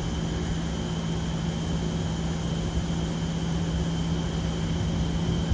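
Steady low mechanical hum with a constant drone and an even hiss, holding level throughout with no distinct events.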